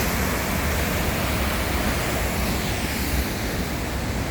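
Waterfall plunging into its pool: a steady, loud rush of falling water with a deep rumble underneath.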